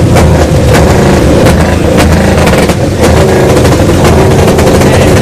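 Car engine running loudly at a steady low idle, with scattered sharp pops and crackles from the exhaust.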